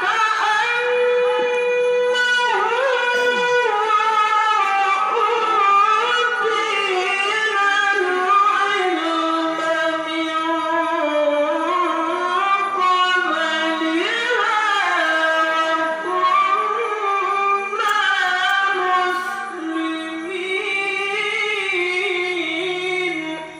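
A qari reciting the Qur'an in a high register, drawing out one long melismatic phrase with ornamented held notes that stops just before the end.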